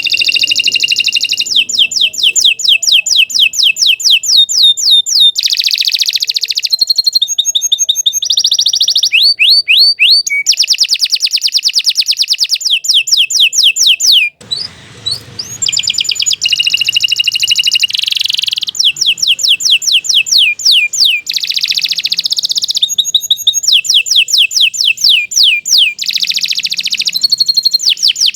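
Domestic canary singing a long, continuous song of fast trills and rapidly repeated gliding notes, switching to a new phrase every second or two, with a brief pause about halfway.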